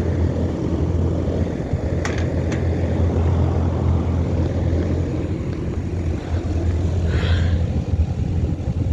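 2008 Trane XB13 3-ton air conditioner's outdoor unit running steadily shortly after startup: the scroll compressor and condenser fan give a constant low hum, with a couple of faint ticks about two seconds in.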